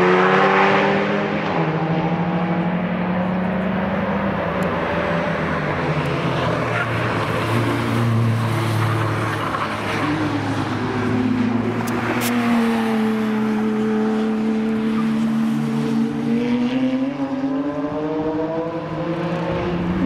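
Cars driving past on a race track, with more than one engine note heard at once. One engine's pitch drops about halfway through, holds low for several seconds, then rises again near the end.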